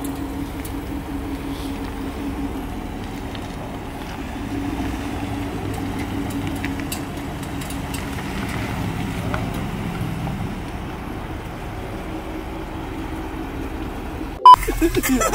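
Cadillac SUV engine idling at the curb, a steady low hum. Near the end the sound cuts out briefly with a single sharp click.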